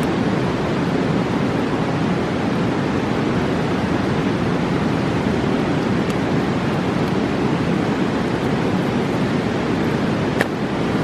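Mountain river rushing steadily, with a few brief pops from a campfire; the loudest pop comes about ten seconds in.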